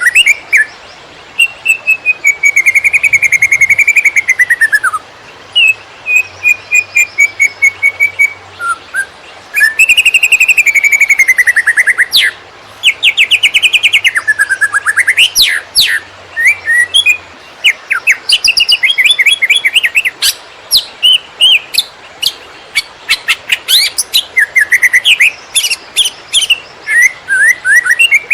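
Green leafbird (cucak ijo) singing in the fast, stuttering 'konslet' style: loud strings of whistles, rapid trills and rising and falling glides, with brief pauses between phrases.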